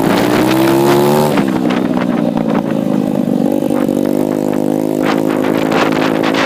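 125cc pit bike engine running, its pitch rising for about a second, then dropping and holding steady. Scattered clicks and knocks from about five seconds in.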